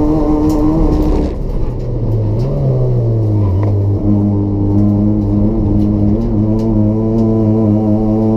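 Race-prepared Toyota Etios's 1.5-litre petrol engine with a free-flow exhaust, at steady revs, then coming off the throttle about a second in. From about four seconds in it pulls again with a steady drone that rises slowly in pitch.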